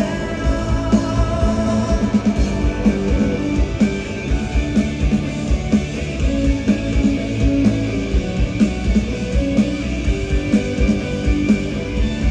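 Live rock band playing an instrumental passage between vocal lines: drums keep a steady beat under bass and electric guitar.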